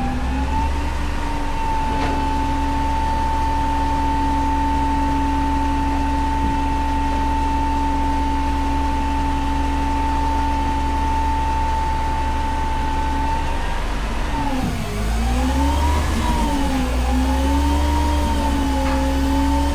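Front-load garbage truck engine held at raised revs, a steady pitched drone that typically powers the hydraulic lift arms. About fourteen seconds in, the pitch drops, then rises and falls several times.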